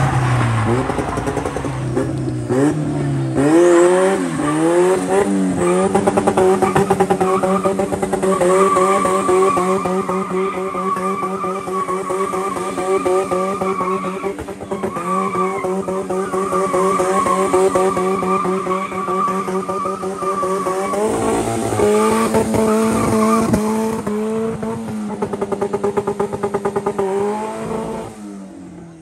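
Car engine revving up and held at high revs for a long stretch, dipping briefly and rising again, then winding down near the end.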